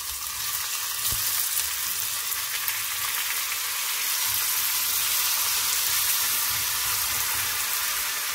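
Diced raw potatoes sizzling in hot oil in a frying pan as they are tipped in, a steady sizzle that grows a little louder about a second in.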